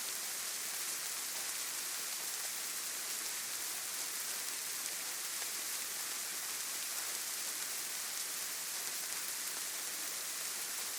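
Steady rain falling on foliage, an even hiss of many small drops without gusts or distinct drips.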